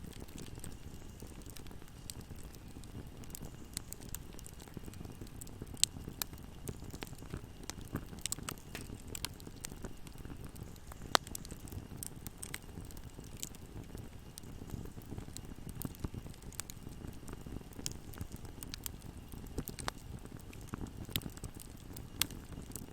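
Fire burning in a fireplace: a steady low rustle of flames with frequent sharp crackles and pops, two of them louder, about six and eleven seconds in.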